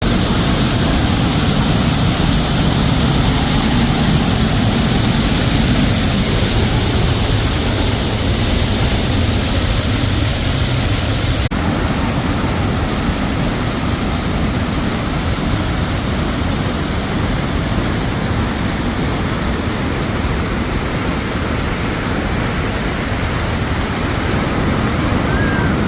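Waterfall rushing steadily. The sound changes abruptly about eleven seconds in, with less hiss after the change.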